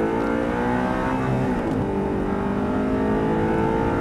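Audi R8 engine heard from inside the cabin, accelerating hard down a straight with its note rising steadily. There is a brief dip in pitch about a second and a half in.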